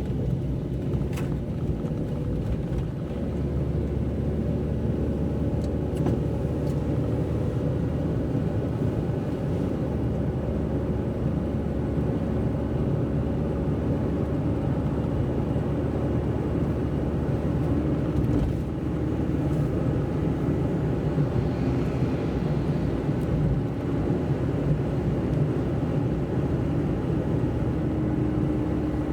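A car driving on a wet road: a steady low rumble of engine and tyres, with faint engine tones shifting a little in pitch near the end.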